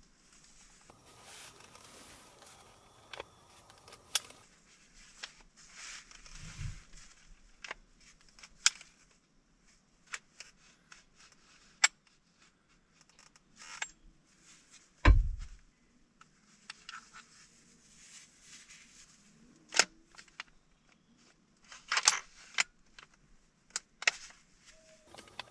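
Scattered small clicks and short rustles of handling noise, with a dull thump about fifteen seconds in.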